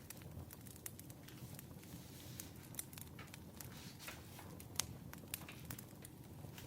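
Wood fire crackling: irregular sharp pops over a low, steady rumble, with one louder pop a little under five seconds in.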